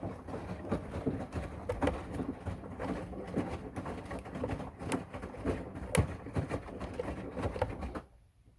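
Washing machine running: a low hum with clothes and water tumbling in the drum, giving many irregular knocks and clicks. The sound cuts off suddenly about eight seconds in.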